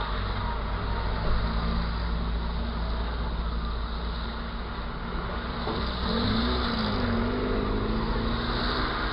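Car driving on the road: steady engine and road rumble with a noisy hiss. A wavering pitched drone joins about six seconds in.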